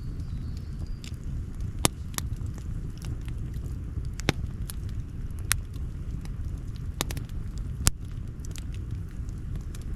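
Campfire crackling: many small ticks and about five sharp, loud pops over a low, steady rumble.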